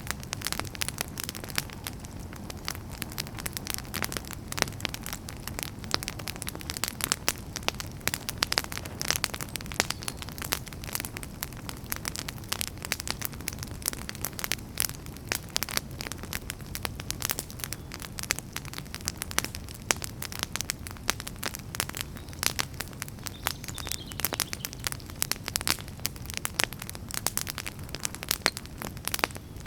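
Wood fire burning in a fireplace, crackling steadily with many sharp pops and snaps over a low, even rumble of flame.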